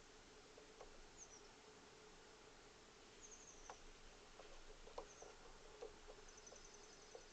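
Faint outdoor quiet at a bird feeder: scattered soft taps and clicks, with distant high-pitched bird chirps and short high trills about three seconds in and near the end.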